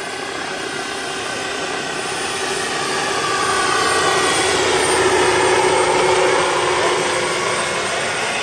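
Large radio-controlled Mi-24 scale model helicopter running: a steady whine of its motor and rotors that grows louder toward the middle and then eases slightly.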